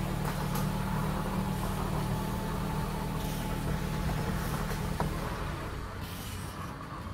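A motor vehicle engine idling with a steady low hum that eases off about five to six seconds in.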